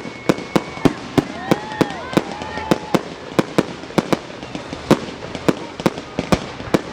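Fireworks going off in a rapid, fairly even series of sharp bangs, about three a second, with a few faint gliding whistle-like tones between them.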